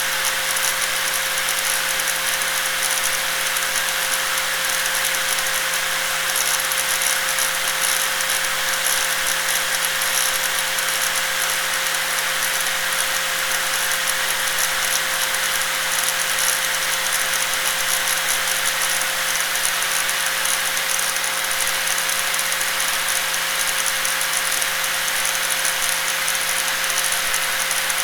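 Electric angle grinder running steadily, with a constant tone and a strong hiss that do not change.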